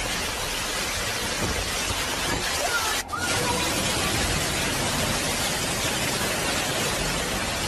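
Heavy rain and floodwater, with car tyres spraying water as they drive through a flooded street: a steady, loud hiss that briefly drops out about three seconds in.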